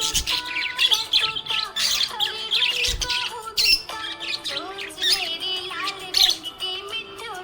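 Budgerigar chirping and chattering: a fast, continuous run of high warbling chirps and squawks.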